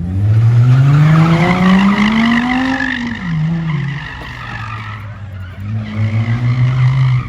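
Car engine revving hard with tires squealing: the revs climb for about three seconds, drop back, then rise again and hold near the end.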